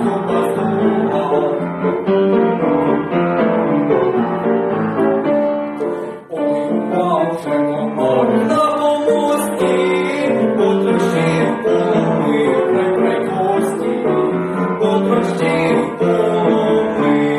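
Music led by piano, with a brief break about six seconds in.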